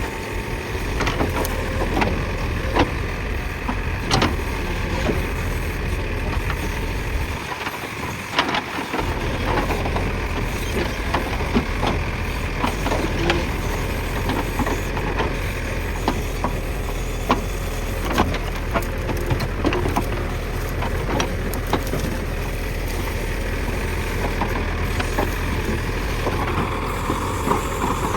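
JCB backhoe loader's diesel engine running steadily under work, with frequent sharp cracks and knocks from the bucket breaking through brush and soil.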